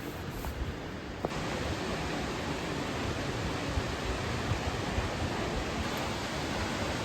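Steady rushing roar of a large waterfall, Nachi Falls, with an even hiss of falling water. About a second in it abruptly becomes louder and brighter, then holds steady.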